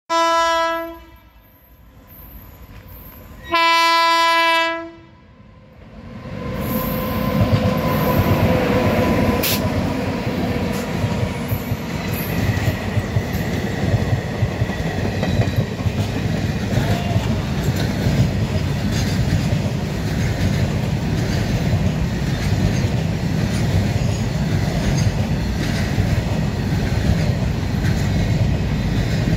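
Twin WAG-9 electric locomotives sound their air horn in two blasts, a short one and then a longer one. The loaded military train then runs past: coaches and flat wagons rumbling, with rhythmic clickety-clack of wheels over rail joints.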